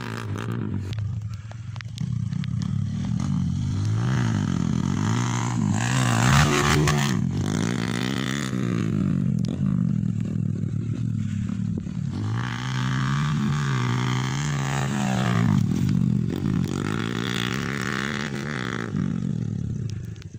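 Motocross motorcycle engines revving, the pitch climbing and dropping again and again with throttle and gear changes, loudest about six seconds in.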